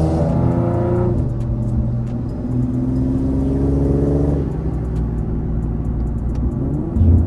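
Infiniti G37's VQ37 V6 with full bolt-ons and a loud exhaust, accelerating hard. The engine pitch climbs until about a second in and drops at an upshift, then climbs again until about four seconds in before the throttle eases and it runs lower. A brief louder low rumble near the end.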